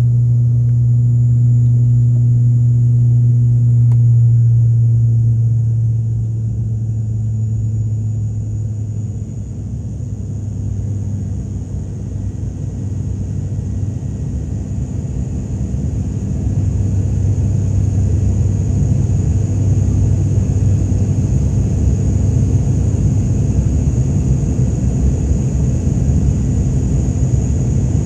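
Aircraft engines running: a loud, steady low drone with a faint high whine above it. It eases off about a quarter of the way in and grows louder again from about halfway.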